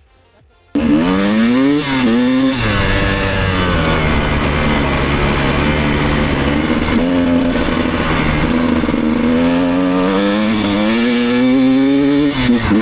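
Enduro motorcycle engine running under way, cutting in abruptly about a second in, its revs repeatedly climbing and dropping.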